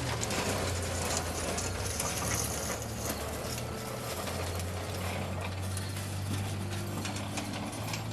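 Homemade electric lawn tractor pushing gravel with a front plow blade: gravel scraping and crunching over a steady low hum.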